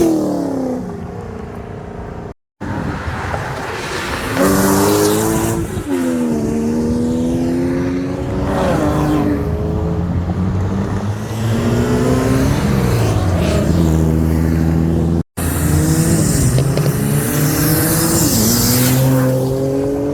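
Car engines revving hard as cars accelerate away, pitch climbing and dropping again with each gear change, one car after another. The sound breaks off abruptly twice between clips.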